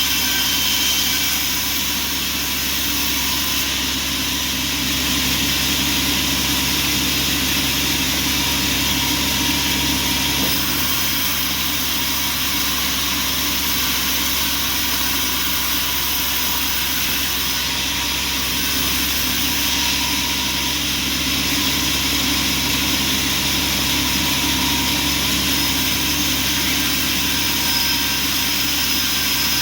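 Bandsaw sawmill running: a loud, steady machine drone with steady tones over a hiss, unchanging throughout.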